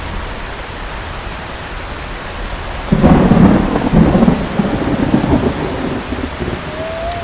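Steady heavy rain, with a sudden loud thunderclap about three seconds in that rumbles on and dies away over the next few seconds.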